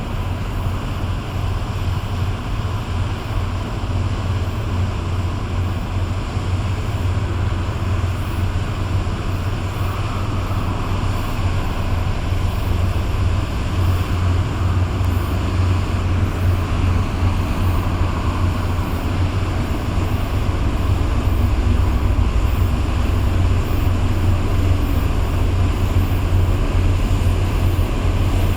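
Low steady rumble of a large tugboat's diesel engines passing through the strait, mixed with wind buffeting the microphone, growing a little louder in the last third.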